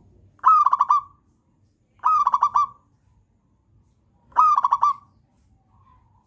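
Zebra dove (perkutut) singing three short phrases of rapid cooing notes, each phrase about half a second long, roughly two seconds apart.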